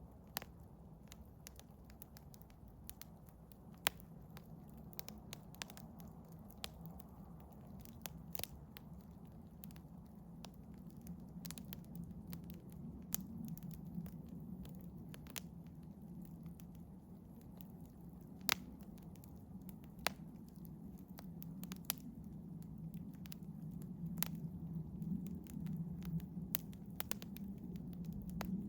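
Campfire of eastern hemlock and birch bark crackling, with sharp pops at irregular intervals over a low steady rumble of the flames that grows louder in the second half.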